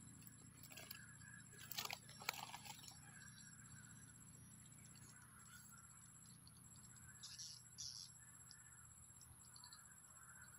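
Steady high-pitched insect buzzing with a faster pulsing trill under it, faint overall, with a few short rustles and clicks about two seconds in and again near eight seconds.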